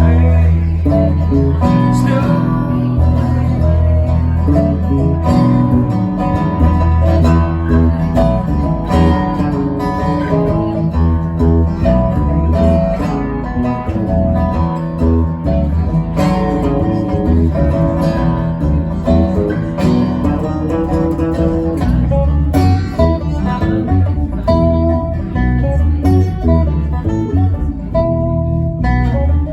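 Live band music led by guitar, over a strong bass line and a steady beat.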